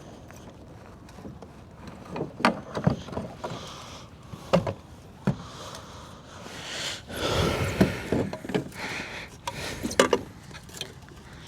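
Knocks and clatter of a fish and a measuring board being handled on a kayak, scattered sharp taps throughout, with a longer rustle about seven seconds in.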